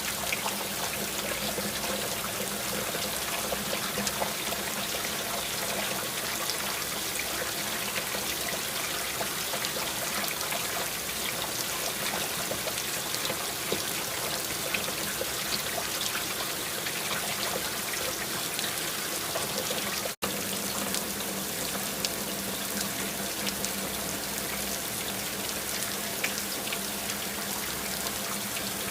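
Steady rain, with many small drop hits and water trickling and pouring. The sound cuts out for a split second about twenty seconds in.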